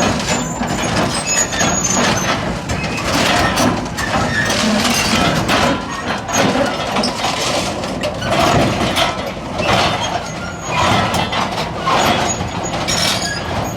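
Heavy diesel earthmoving machinery working: an engine running under load, with irregular clattering and scraping throughout.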